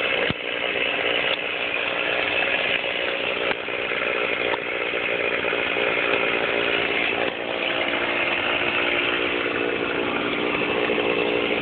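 Chainsaw running steadily at high speed, with a few brief dips.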